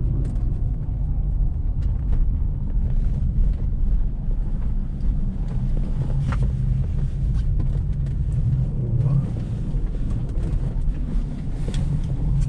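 Steady low rumble of a car driving on a snow-covered road, heard from inside the cabin: engine and tyre noise, with a few faint ticks.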